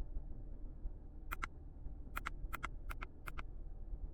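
Faint clicks of buttons being pressed on a handheld OBD2 scanner, a quick run of about five presses, mostly heard as paired clicks, while scrolling through its live data.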